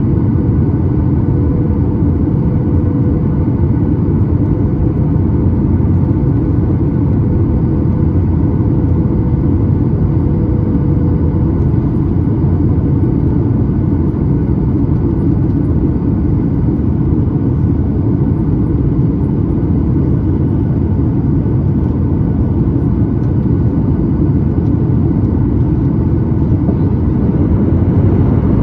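Steady cabin noise aboard a Boeing 737-9 MAX in flight: a loud, even rumble of airflow and CFM LEAP-1B engines, with a faint hum that fades out about eleven seconds in.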